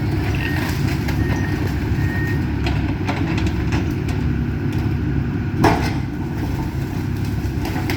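Excavator's diesel engine running steadily at a demolition, with a reversing alarm beeping a few times at the start. Scattered cracks of breaking debris come through, the loudest a single sharp crack a little past halfway.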